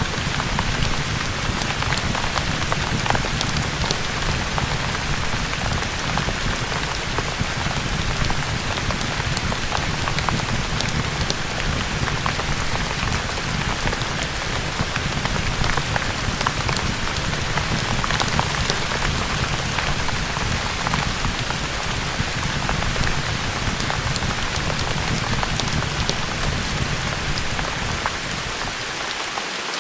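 Ambient rain sound: steady, heavy rain with many small sharp ticks and crackles scattered through it, as in a rain-and-fireplace mix. The low rumble drops away briefly near the end.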